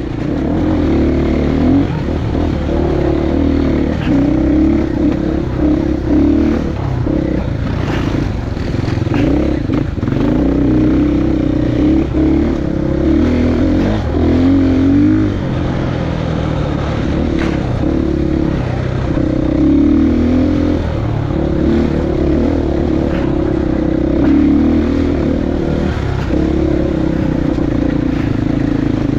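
Single-cylinder four-stroke KTM 450 EXC enduro motorcycle engine running under way, its revs rising and falling continually as the bike is ridden.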